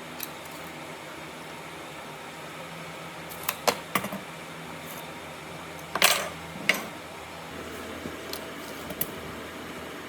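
Several sharp knocks and clicks over a steady low hum: a cluster about a third of the way in, the loudest just past the middle, and a few lighter taps near the end.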